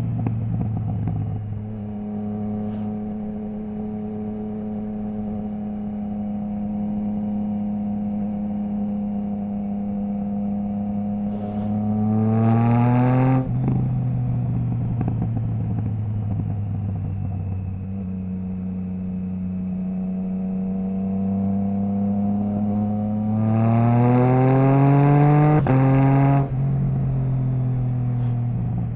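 Triumph Trident 660 inline three-cylinder engine through a Zard stainless full exhaust with the baffle removed, on the move at a steady throttle. Twice the revs climb under acceleration and then drop suddenly, the second climb broken by a brief cut as it shifts up.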